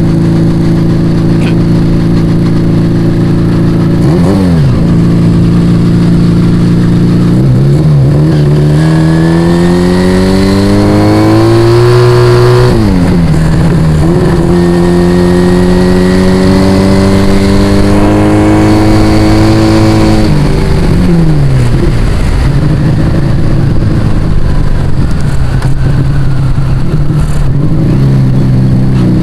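Yamaha Vega ZR motorcycle with an aftermarket Arrow exhaust, under way: the engine note climbs as it accelerates, drops sharply at a gear change about halfway through, holds steady, then falls away again as the throttle is eased.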